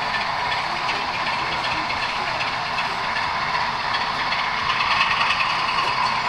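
Model train running on a layout's track: a steady mechanical whirring and clatter.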